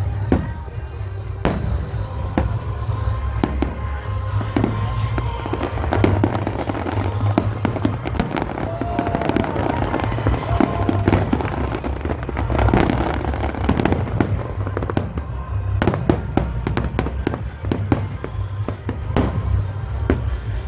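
Aerial fireworks going off in quick succession: many sharp cracks and bangs over a continuous low rumble of booms.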